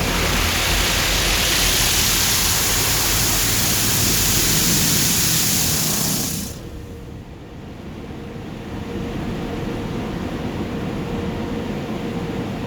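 Loud rushing hiss of automatic tunnel car wash equipment, heard from inside the vehicle, that cuts off sharply about six seconds in, leaving a quieter steady hum.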